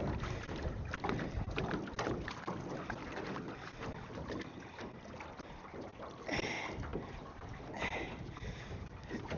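Strong wind buffeting the microphone, with water lapping and knocking against a small aluminium (tin) boat's hull in many small irregular knocks.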